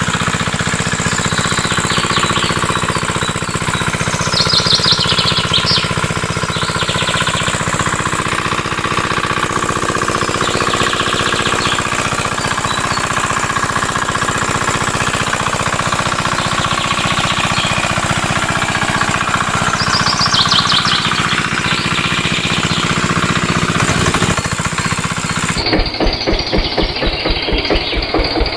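Engine-like sound of a miniature model diesel pump engine running steadily with a fast chugging pulse. Near the end it changes abruptly to a duller, more distinctly pulsing run.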